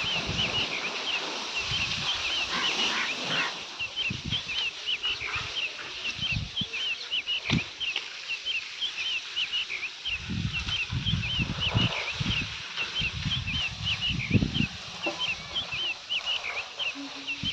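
Small birds chirping continuously in quick, short, high chirps, several a second, with irregular low rumbles beneath.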